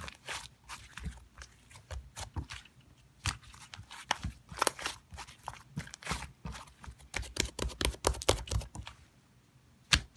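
Irregular crunching and crackling clicks, some in quick clusters, easing off to a quiet gap shortly before the end.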